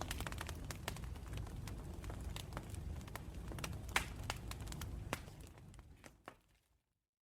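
Wood campfire crackling and popping over a steady low rumble of the flames, with the sharpest pop about four seconds in. The sound then fades out to silence near the end.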